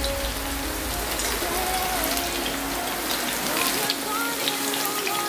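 Coated chicken fillet pieces shallow-frying in hot oil in a pan, a steady crackling sizzle like rain.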